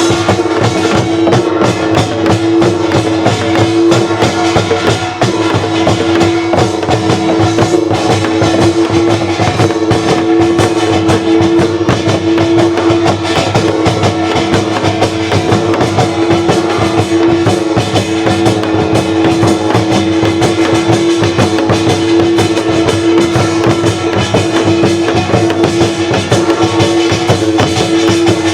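Korean traditional folk music: drums and other percussion struck in a fast, dense rhythm over one steady held tone.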